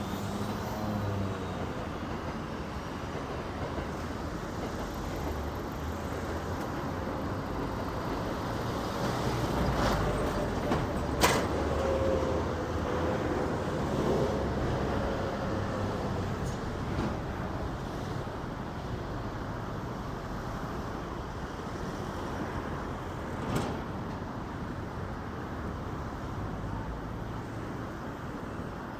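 Electric commuter train running slowly past with a steady rumble, a faint motor whine in the middle and a sharp clack about eleven seconds in and another near the end.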